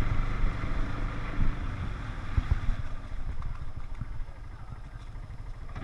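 Four-wheeler (ATV) engine running, its low hum easing off and getting quieter a few seconds in.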